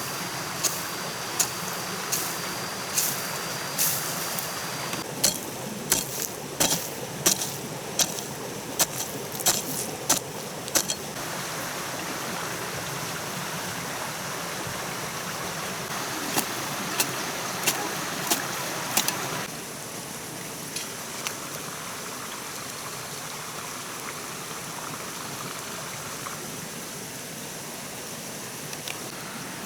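A series of short sharp knocks, about one or two a second, over a steady hiss. The knocks stop partway through, come back briefly for a few strikes, then only the hiss is left.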